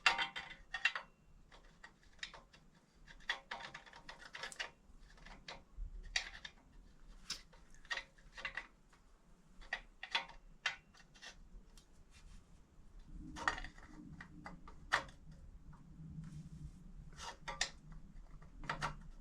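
Irregular metallic clinks, taps and clicks of tools and metal fittings being handled while a motorcycle exhaust is fitted. A faint low hum comes in about two-thirds of the way through.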